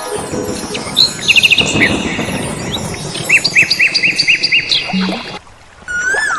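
Songbirds chirping over a steady hiss: a quick run of notes about a second in, then a string of about six repeated chirps, breaking off briefly near the end.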